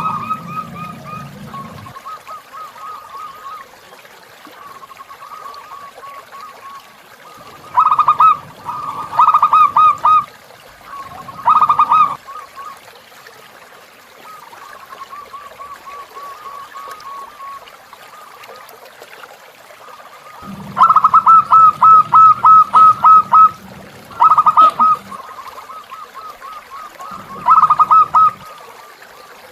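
Zebra doves cooing: loud bursts of rapid repeated notes, the longest a run of about ten notes about two-thirds of the way in, with softer runs of cooing between, over flowing water.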